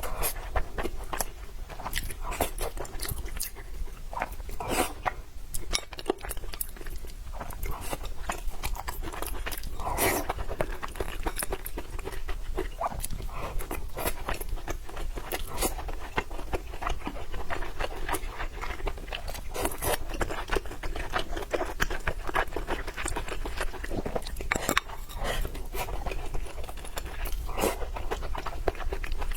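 A person chewing and eating food, a steady run of small mouth clicks and smacks.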